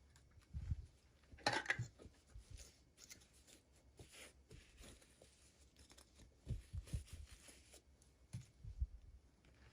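Packaging being handled in an unboxing: a short crackly rustle about a second and a half in, faint scattered rustles and ticks, and a few soft low bumps as things are set down or knocked.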